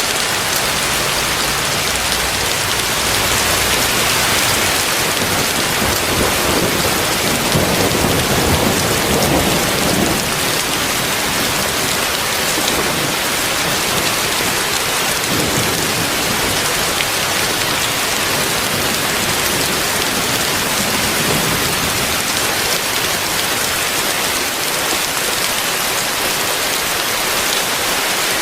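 Heavy rain falling hard and steadily, a dense hiss, with a low rumble swelling briefly about eight seconds in.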